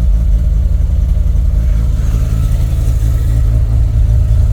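Turbocharged Mazda RX-7 engine idling steadily at about 1500 rpm shortly after its first start-up, through a new homemade exhaust. It is really quiet and running rich while it warms up.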